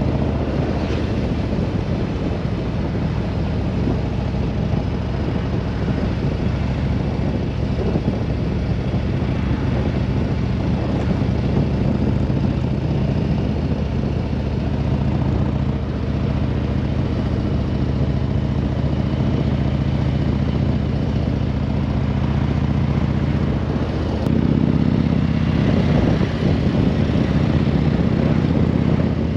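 Harley-Davidson Road Glide's V-twin engine running steadily under way. It gets louder about five seconds before the end.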